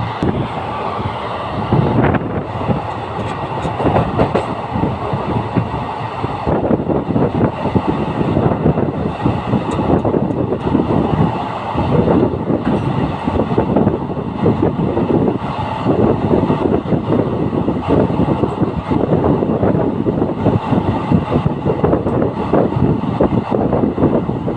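Passenger train in motion, its coach wheels rumbling and clattering steadily over the rails with frequent irregular knocks from the track.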